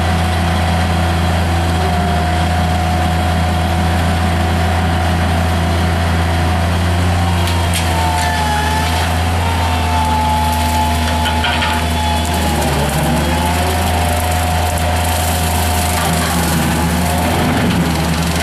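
Mini skid steer loader running steadily with its hydraulic brush cutter attachment, an even engine drone with a whine above it that wavers in pitch. Scattered crackling starts about seven seconds in.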